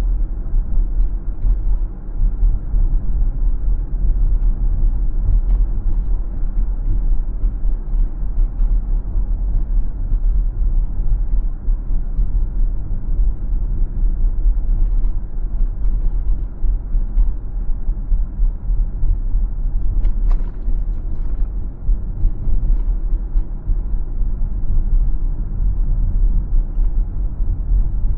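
Steady low rumble of a car being driven on city streets: road and engine noise.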